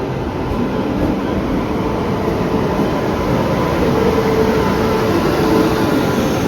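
Steady, loud running noise of a moving train.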